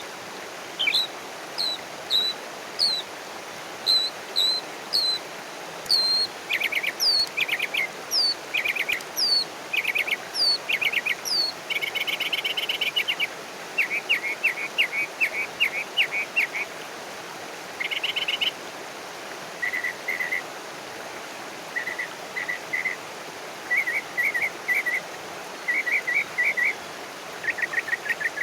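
Wild birds calling and singing: a run of short, high, falling whistled notes repeated about once a second, then lower trilled and chattering phrases from other birds, over a steady outdoor hiss.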